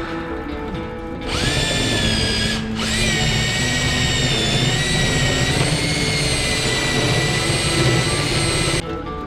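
Electric power drill running at speed with a high whine, stopping briefly about a second after it starts and then running on steadily for several seconds before it stops near the end. Background music plays throughout.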